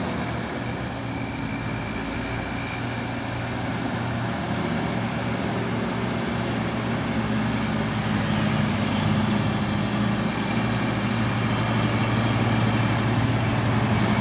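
Heavy diesel truck engine running under load with a steady low drone, growing somewhat louder toward the end as it comes closer or works harder.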